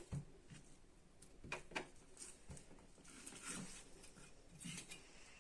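Faint taps and rustling of a knife cutting raw beef into pieces, with a few sharper knocks spread through.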